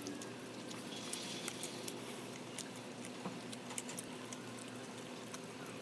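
Close-up eating sounds: wet chewing, lip smacks and gnawing at food held in the hands, many small irregular clicks over a faint steady hum.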